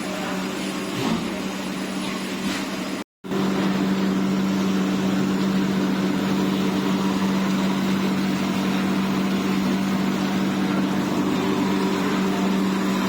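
Steady hum of egg tray production machinery, with a strong low tone. A few light knocks come in the first three seconds, then the sound cuts out for a moment and the hum resumes.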